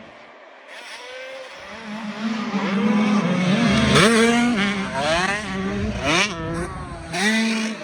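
Off-road race engines revving hard, pitch climbing and dropping repeatedly as the machines pass and shift through the gears, loudest about four seconds in.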